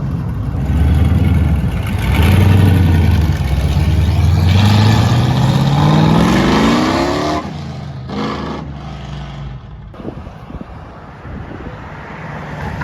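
A car accelerating hard as it leaves: a loud, low engine note whose pitch climbs steadily for a few seconds, then drops away suddenly about seven seconds in.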